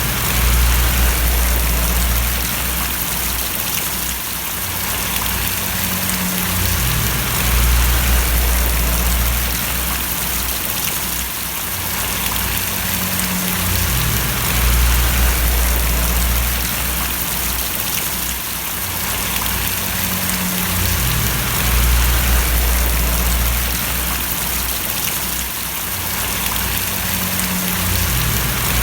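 Steady rain falling and splashing, an even hiss of drops, with a deep low rumble underneath that swells and eases about every seven seconds.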